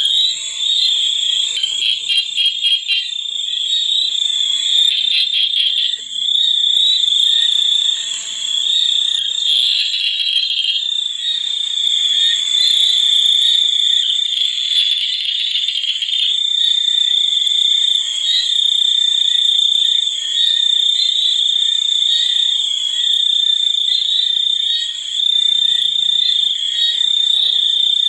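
A steady, high-pitched chorus of calling frogs and insects, with a rapid pulsing trill a couple of seconds in.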